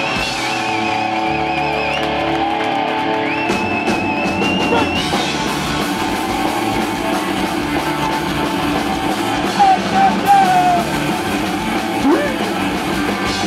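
Live punk rock band playing loud, distorted electric guitars and drums through a PA, with wavering high tones over the guitars in the first few seconds.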